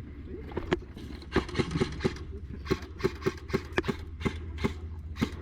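Quick footsteps on a hard floor: about fifteen sharp, uneven footfalls of a player moving fast, over a low steady rumble.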